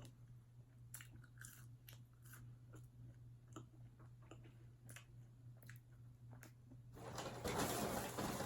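Close-mic chewing and biting of crispy fried fast food, with soft crunches and mouth clicks over a low steady hum. About seven seconds in, a much louder rustling of a takeout bag starts as she rummages in it.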